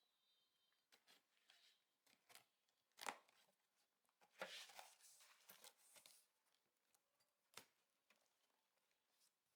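Near silence with a scattering of faint clicks and short rustles, as of things being handled; the clearest come about three seconds in, a burst around four and a half seconds, and a sharp click past seven and a half seconds.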